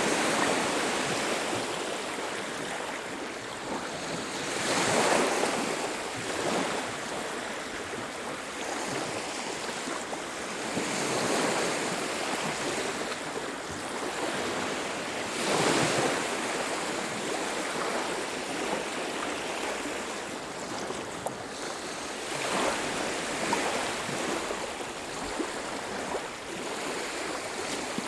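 Ocean surf on a beach: a steady wash of water, with a wave breaking and rolling in about four times, every five or six seconds.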